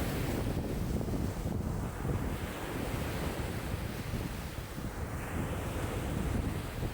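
Choppy lake waves breaking and lapping in strong wind of about 5 m/s, with wind buffeting the microphone. A heavy low rumble runs under swells of splashing hiss that rise and fall every second or two.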